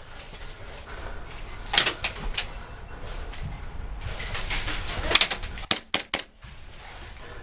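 Airsoft guns firing: sharp cracks in small clusters over a background of outdoor noise, with a few about two seconds in and a quick run of about five shots around five to six seconds in.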